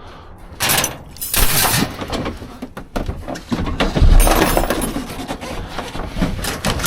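Scrap metal clanking and rattling as pieces are shifted and pulled out of a dumpster, in irregular clatters with a heavy thump about four seconds in.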